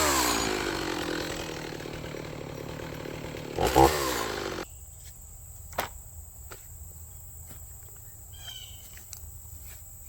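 Stihl MS290 two-stroke chainsaw dropping from full throttle to idle and idling, with one short rev about four seconds in; the engine then cuts off suddenly a moment later. A few light knocks and faint insect sounds follow.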